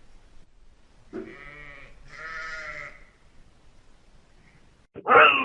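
A farm animal bleating twice in a row, two short wavering calls back to back. Just before the end a sudden loud sound cuts in.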